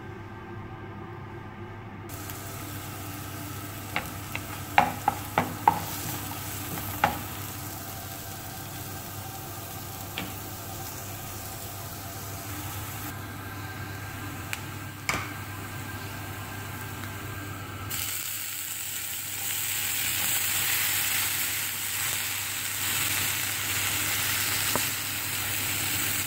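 Chopped onions sizzling as they fry in a non-stick frying pan, stirred with a wooden spoon that knocks sharply against the pan several times, in a quick cluster and then singly. The sizzle grows louder and brighter about two-thirds of the way through.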